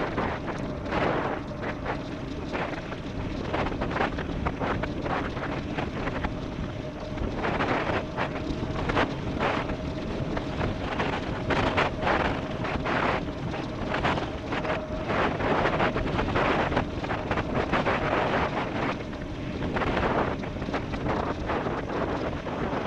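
Wind buffeting the microphone on an e-bike descending fast on rough ground, with a faint steady hum and frequent short knocks and rattles from the bike over bumps.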